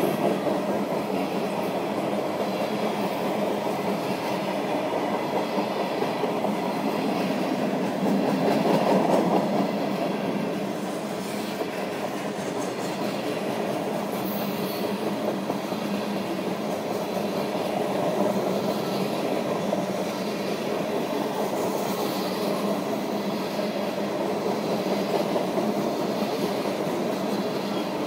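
CSX train cars rolling past, wheels clicking over the rail joints in a steady clatter, which swells for a moment about eight to ten seconds in.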